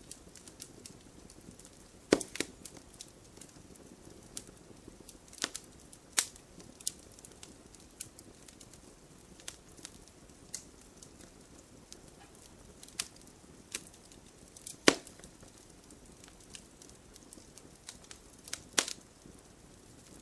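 Wood fire crackling: irregular sharp pops and snaps over a soft steady hiss, with the loudest snaps about two, six, fifteen and nineteen seconds in.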